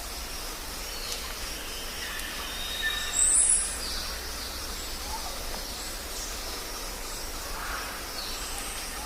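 Jungle ambience: a steady hiss with a low rumble underneath and scattered short bird calls. About three seconds in, one loud, very high-pitched call stands out.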